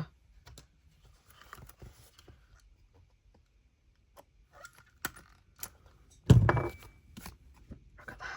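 Small clicks and rustles of paper and metal being handled, then about six seconds in a single loud clunk as a Crop-A-Dile tool is squeezed to set a metal eyelet through card.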